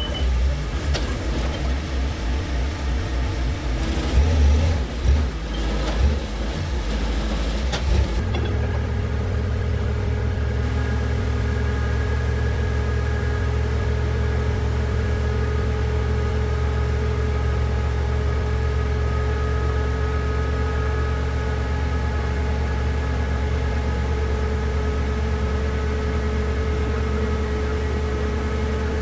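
An engine or motor running: uneven for about the first eight seconds, then settling to a steady, unchanging hum.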